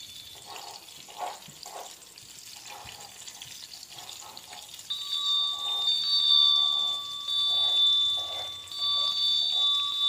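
Eggplant omelette shallow-frying in oil in a stainless steel pan, a steady sizzle with irregular bubbling pops. About halfway through, high steady tones that switch on and off come in over the frying and are louder than it.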